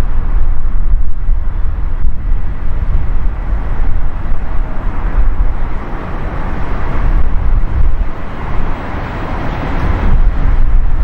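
Jet airliner engine noise, a broad rushing sound that swells through the second half, over heavy wind rumble on the microphone.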